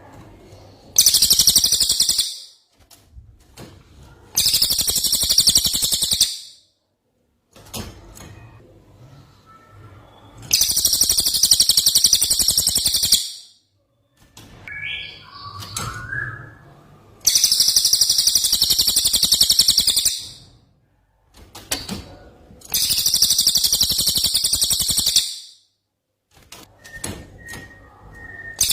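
Greater green leafbird (cucak ijo) singing its harsh, rapid 'tembakan' phrases: five long, very high-pitched bursts of two to three seconds each, with softer calls in the gaps.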